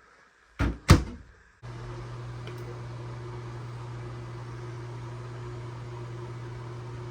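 Two sharp knocks, then a steady machine hum that starts abruptly and holds even, the sound of a small electric motor running.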